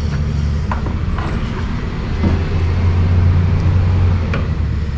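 An engine running steadily at low speed, swelling louder for a couple of seconds in the middle, with a few light clicks of hoses and parts being handled.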